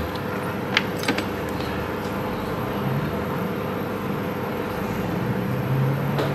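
Steady mechanical hum with several even tones, and a few light clicks about a second in.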